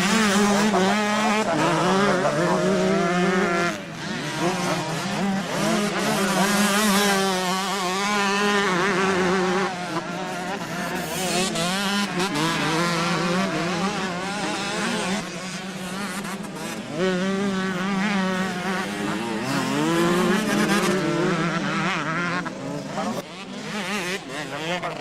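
Motocross motorcycles racing on the track, their engines revving up and falling back again and again as they accelerate, shift and pass. A steady low drone runs under them for much of the time.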